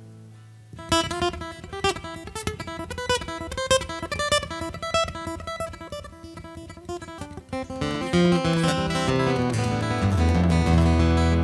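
Acoustic guitar playing a song intro of quick plucked notes, starting about a second in. Near the end it grows fuller and louder as low bass notes join.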